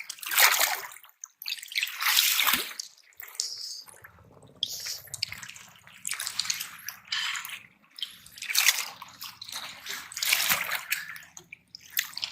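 Seawater splashing and sloshing among shore rocks in heavy surf, in a series of short irregular rushes.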